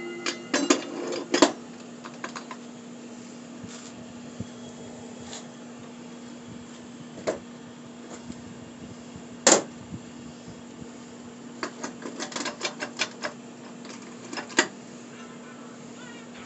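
Metal parts and hand tools clinking and clicking during reassembly of a TH350 automatic transmission: a cluster of clinks at the start, one sharp loud click a little past the middle, then a quick run of light clicks, over a steady hum.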